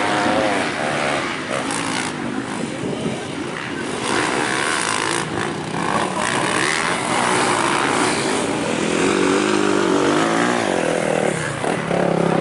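Motocross bikes racing on a dirt track, their engines revving up and falling back in pitch as they pass, with the revving loudest and most sustained near the end.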